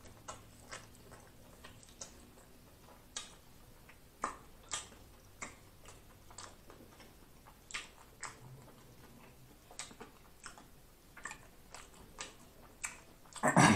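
Close-miked chewing of a pickle spear: irregular wet crunches and mouth clicks, a few a second, with a louder burst of mouth noise near the end.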